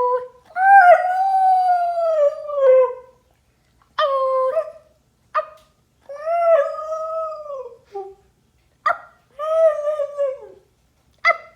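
Husky howling in a series of drawn-out calls, each rising then falling in pitch, the longest near the start, broken by short sharp yips.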